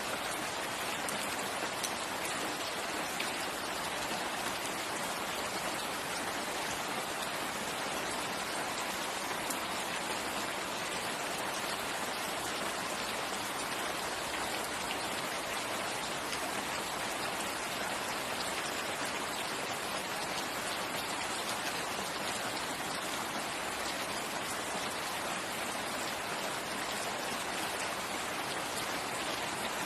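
Steady rain falling: an even hiss dotted with faint ticks of individual drops, unchanging throughout.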